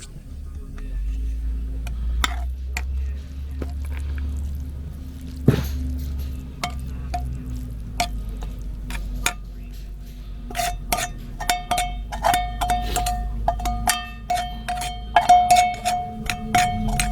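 Metal utensil clinking and scraping against metal cookware, the strikes sparse at first and coming quickly in the second half, with a steady ringing tone under them.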